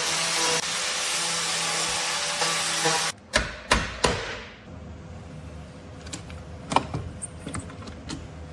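A power tool runs steadily and cuts off abruptly about three seconds in. Three sharp metal knocks with ringing follow in quick succession, then a few lighter clicks and knocks on the car's body panel during dent repair.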